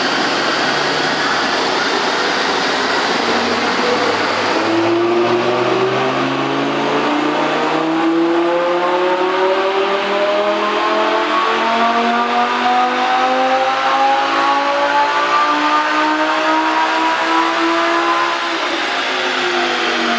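Lamborghini Gallardo LP560-4's 5.2-litre V10 on a chassis dyno pull. The engine note climbs steadily in pitch for well over ten seconds, then falls away near the end as the revs drop.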